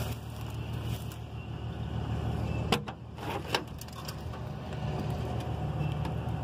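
Steady low engine rumble of a running vehicle, with two sharp clicks a little under a second apart near the middle.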